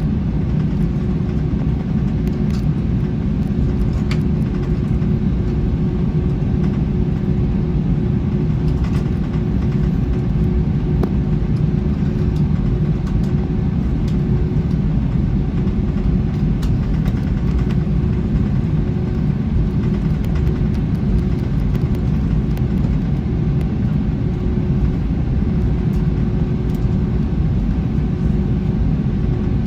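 Steady cabin rumble of an Airbus A321 with its jet engines running, heard from inside the cabin, with a constant hum held through and no change in pitch or loudness.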